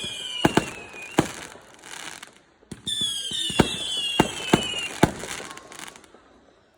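Fireworks going off: a shrill whistle sliding slowly down in pitch with sharp bangs through it, ending about a second in, then a second whistle starting about three seconds in with more bangs and cutting off near the end.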